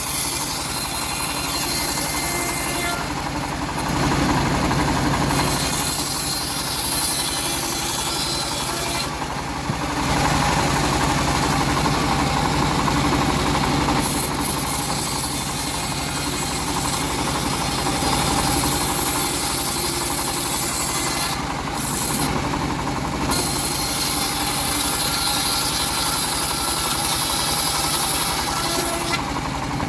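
Homemade engine-driven bandsaw running continuously as it saws old teak wood. The engine drone and blade noise are steady, with the high sawing hiss dropping briefly a few times.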